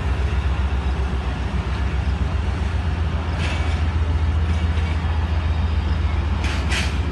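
Passenger train coaches rolling past on the track: a steady low rumble, with brief hisses about three and a half and six and a half seconds in.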